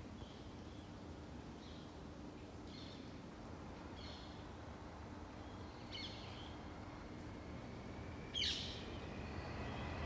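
Wild birds calling: short high chirps about once a second, then a louder, sharp downward-sweeping call near the end, over a steady low rumble of street traffic that grows toward the end.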